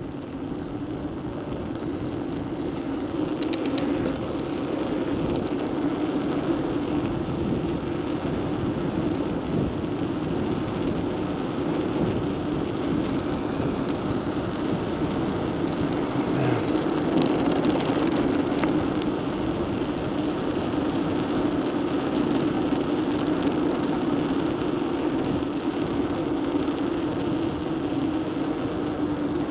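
Steady wind rush over the microphone from riding a bicycle, swelling slightly a little past halfway.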